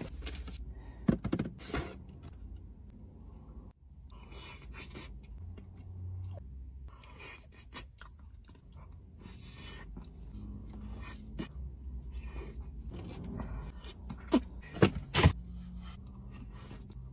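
Close-up eating sounds: chewing and mouth sounds over a low steady hum, with bursts of rustling and a few sharp clicks or taps, several of them close together near the end.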